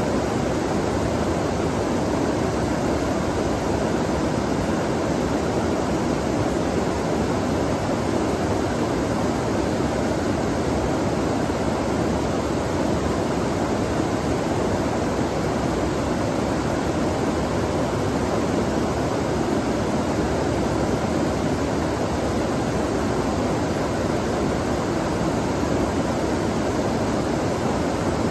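Flowing stream water making a steady, even rush with no breaks.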